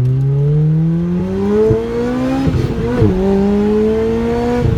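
Sports car engine accelerating hard, its pitch climbing with the revs, dropping at an upshift about halfway through, then climbing again in the next gear.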